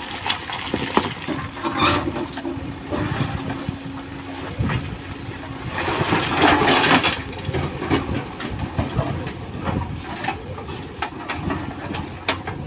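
Loose stones pouring and clattering, a rushing rattle full of sharp knocks that swells loudest about halfway through, with a machine engine running steadily underneath early on.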